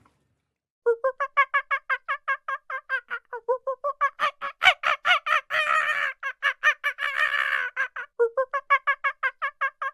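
An animal calling in a fast, unbroken series of short pitched notes, about five or six a second, starting nearly a second in and growing louder and harsher in the middle.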